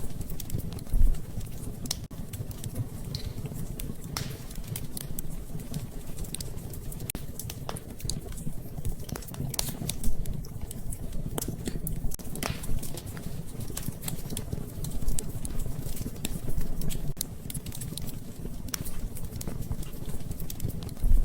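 Wood fire crackling in a fireplace: irregular sharp crackles and pops over a steady low rumble of burning, with a few louder pops, about a second in, midway and near the end.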